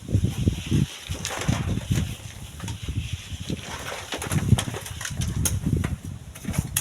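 Strong wind buffeting the microphone: an irregular, gusty low rumble that swells and drops throughout.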